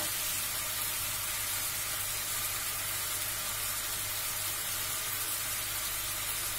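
Chicken pieces sizzling in soy and oyster sauce in a frying pan, a steady even hiss.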